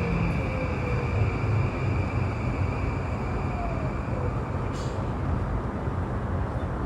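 Interior running noise of an E235-1000 series electric train: a steady rumble of wheels on rail, with a steady high whine and a few faint tones falling in pitch.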